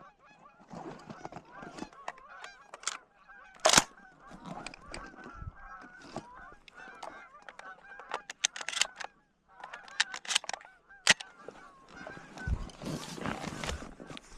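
A flock of Canada geese honking, many overlapping short calls, with a few brief sharp louder sounds in between, the loudest about four seconds in.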